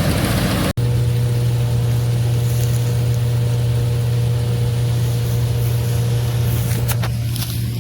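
A John Deere tractor's engine running at a constant speed with a steady low drone, as when driving a straw reaper. Less than a second in, a noisier sound cuts off abruptly and the drone takes over. A few light clicks come near the end.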